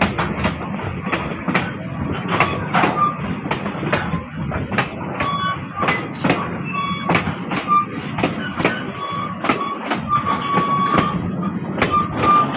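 Train running on rails: a steady rumble with frequent sharp knocks from the wheels and short, high wheel squeals coming and going.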